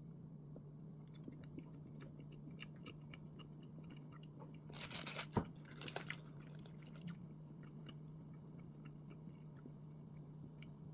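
Quiet eating sounds of bread being chewed: soft scattered clicks, with a brief rustling, crunchy burst about five seconds in. A steady low hum runs underneath.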